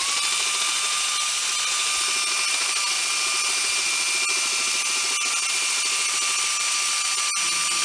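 Power drill running steadily at high speed: a constant whine over a hiss.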